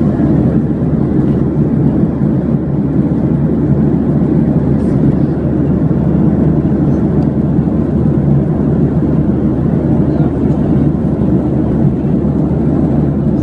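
Steady, loud rumble of an airliner's engines and airflow heard inside the passenger cabin, even throughout.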